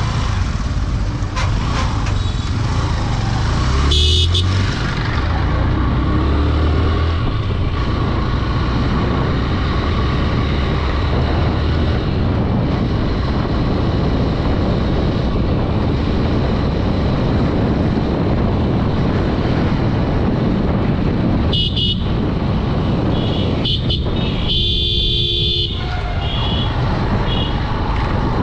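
Honda Dream 110's single-cylinder engine running steadily under riding, with constant road noise. Vehicle horns honk about 4 seconds in, in a short beep about 22 seconds in, and in a longer blast near the end followed by a few short toots.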